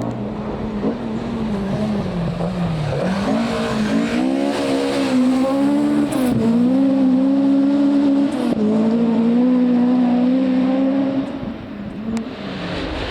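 Rally car engine on a stage, the pitch falling over the first few seconds as it slows, then rising hard under acceleration with gear changes about six and eight and a half seconds in, before lifting off near the end.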